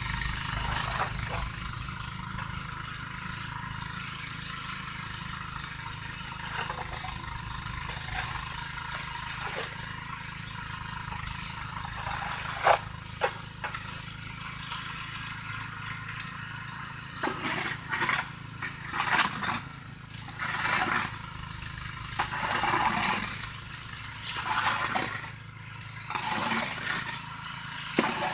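Snow shovel scraping over pavement in repeated strokes, which come close together from about 17 seconds in, over the steady hum of an engine running.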